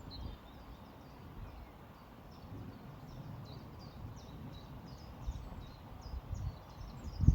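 Small birds chirping: quick, short high notes repeating several times a second, growing denser after the first few seconds, over a low, uneven rumble.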